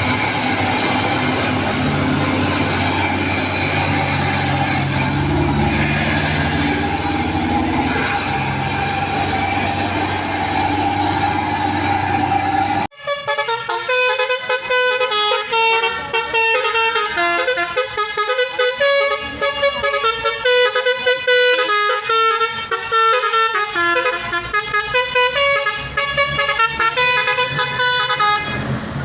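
A heavy vehicle's engine running steadily with a constant high whine. About thirteen seconds in the sound cuts off abruptly, and a multi-note horn then plays a quick tune.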